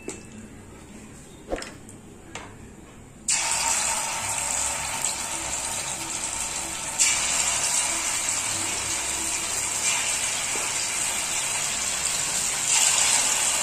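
Marinated, spice-coated chicken pieces dropped into hot oil in a frying pan: a frying sizzle starts suddenly about three seconds in and gets louder about seven seconds in and again near the end as more pieces go in. Before that there are only a few soft clicks of a hand working the marinade in the bowl.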